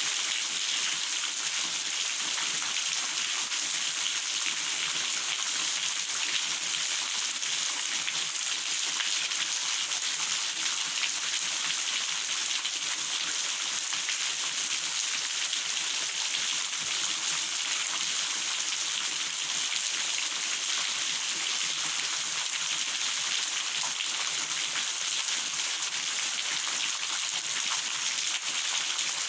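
Steady rain falling, an even hiss of many drops that keeps up without change.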